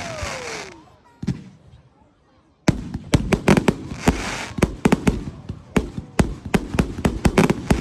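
Fireworks display: a few sharp bangs and crackling fade away early on, then after a short lull a rapid barrage of many sharp bangs and crackles starts and keeps going.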